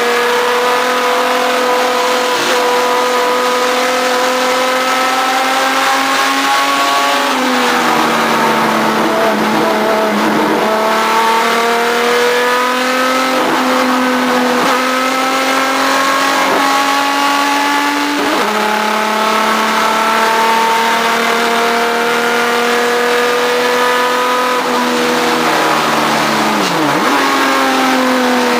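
Race car engine heard from on board, running hard at high revs. Its pitch steps down abruptly a few times at gear changes and dips deeply near the end.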